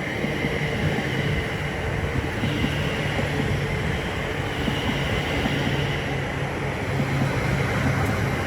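Greater Anglia Class 720 Aventra electric multiple unit pulling into the platform: a steady rumble of wheels and motors with a high steady whine over it.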